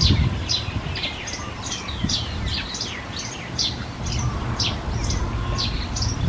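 A bird calling with a run of short, sharp chirps, each falling quickly in pitch, about two a second, over a steady low rumble.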